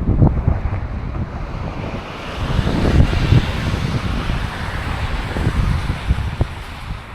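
Wind buffeting the microphone in uneven gusts, with a rushing hiss that swells up over the middle seconds and fades.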